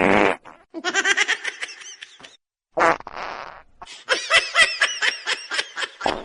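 A person laughing in quick repeated bursts, broken twice by a short, rough, buzzy noise: once at the start and once about three seconds in.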